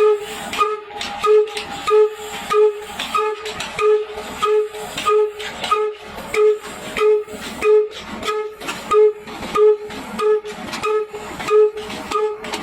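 Old 22 HP diesel oil engine running under load on a stone wheat grinder, its exhaust giving a steady, even beat. Each main beat carries a hooting tone about every two-thirds of a second, with fainter beats between.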